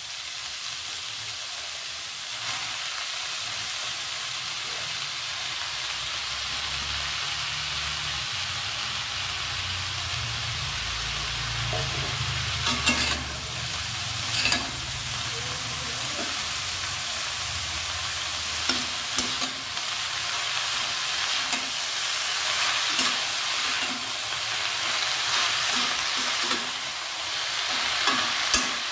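Chopped spinach and potato sizzling in hot oil in a kadai, stirred with a spatula that scrapes and clicks against the pan a few times.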